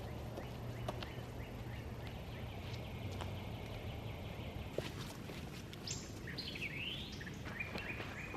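Outdoor woodland ambience: a steady high insect drone with a bird chirping for about a second, roughly two-thirds of the way through.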